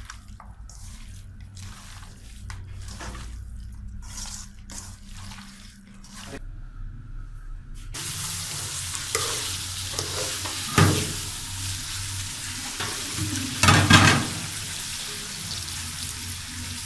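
Scattered light clicks and taps of kitchen utensils, then about eight seconds in a sudden change to curry sizzling in hot oil in a pan. A spoon stirs through it, knocking and scraping against the pan, loudest twice near the middle.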